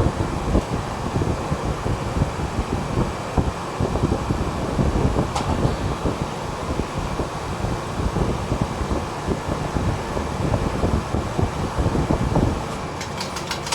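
Gusty rumbling wind noise on the microphone over a steady machine hum from the refrigeration equipment. Near the end the rumble drops away and fast, regular ticking begins.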